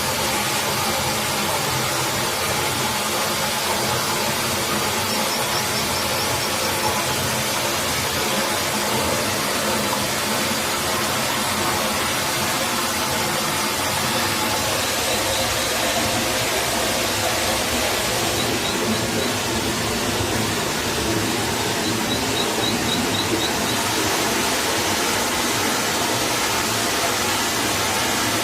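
Steady rushing of a forest stream, with a few brief, faint high chirps from small birds scattered through it.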